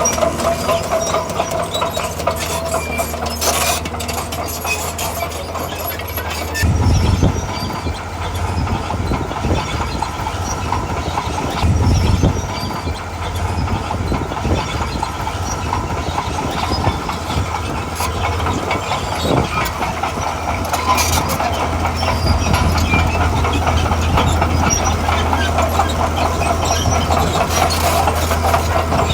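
Diesel engine of a heavy tracked earthmoving machine running under load, with steel tracks clattering. The engine works harder twice, briefly, about seven and twelve seconds in.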